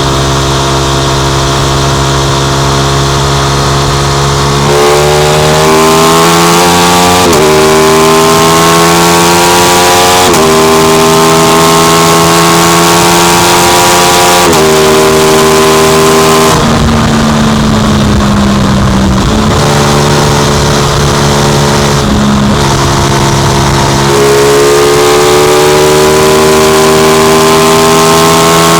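Aprilia RS660 Extrema's parallel-twin engine through its SC-Project exhaust, running steady at first, then accelerating hard with the pitch climbing and three quick upshifts. Midway the throttle rolls off and the pitch falls, then it pulls again near the end, with wind rushing throughout.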